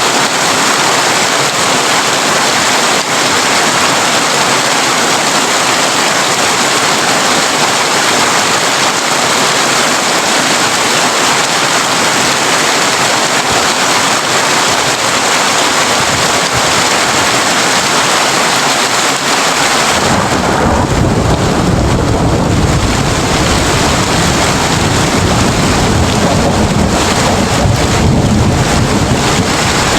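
Heavy rain drumming on a tin roof, a steady dense hiss. About two-thirds of the way in, a deep rumble of thunder comes in and keeps rolling under the rain.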